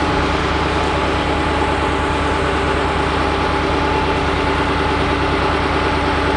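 Propane-fuelled Blue Bird Vision school bus engine idling steadily: an even low rumble with a constant hum above it.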